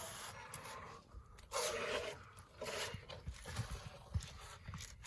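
Irregular scraping and rustling noises with a few soft low thumps, loudest in two short bursts about one and a half and two and a half seconds in.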